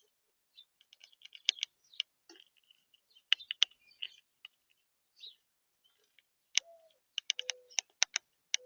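Birds pecking at a seed feeder: irregular sharp taps and clicks in quick clusters, with a few faint chirps between them.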